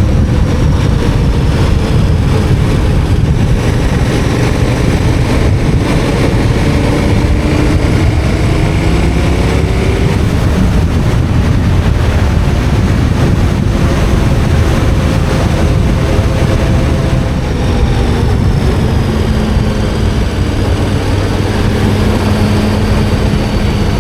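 KTM 1290 Super Adventure R's V-twin engine running under way, its pitch rising and falling with the throttle in the first half and holding steadier later on. Wind and road noise rush over the microphone.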